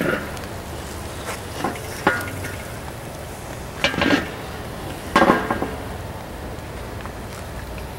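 Metal grilling utensil clanking against the grill grate about four times, each hit ringing briefly, over a steady hiss while burgers cook.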